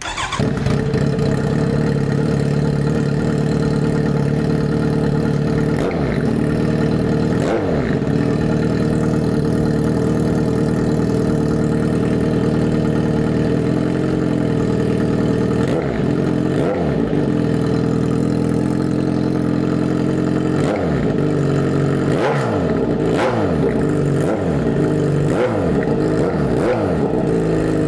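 Kawasaki Z900RS's inline-four engine running through a Wirus Win slip-on exhaust with its baffle fitted, idling between blips of the throttle. There are two blips a few seconds in and two more around the middle, then a quick string of them near the end.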